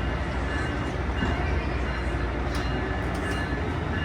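A train rolling along the tracks with a steady low rumble, a few faint thin tones running over it and a handful of light clicks about two and a half to three and a half seconds in.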